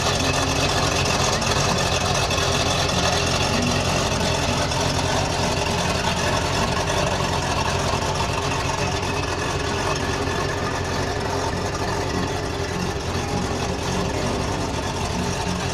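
Ford GT40's V8 engine idling steadily, with no revs.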